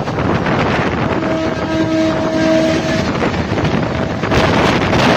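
Passing express train's coaches rumbling and rattling along the track at speed, with wind buffeting the microphone. A steady tone comes in about a second in and holds for about two seconds.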